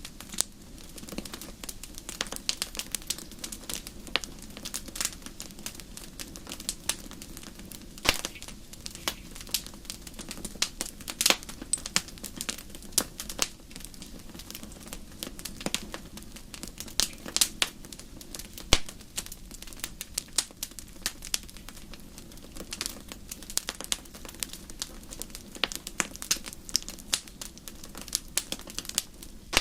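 Campfire crackling: irregular sharp pops and snaps, several a second, over a steady low background hiss.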